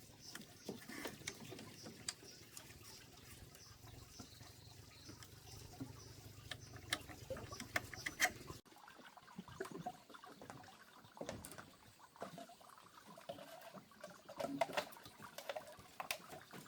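Plastic bottle being handled and cut by hand: scattered crinkles, clicks and scrapes. A faint background hum drops out abruptly about eight and a half seconds in.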